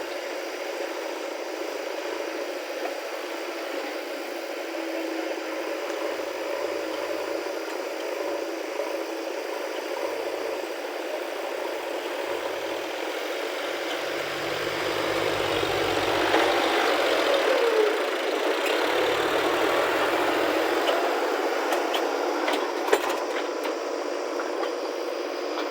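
Diesel engine of heavy machinery running, with rattling. It grows louder about halfway through, with the pitch rising and falling as if revved under load, then settles back.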